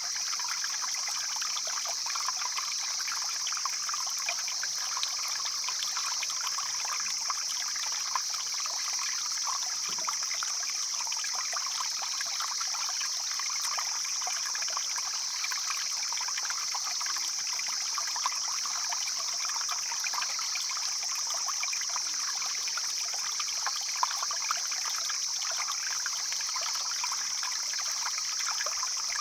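Mountain stream flowing and splashing steadily, with a constant high-pitched hiss over it.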